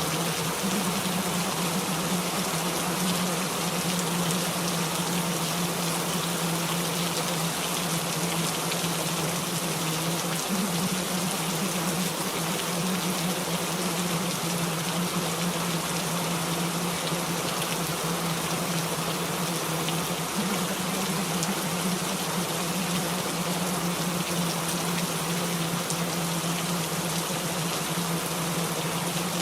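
Recorded rainfall playing as a steady, even hiss, with a constant low hum underneath.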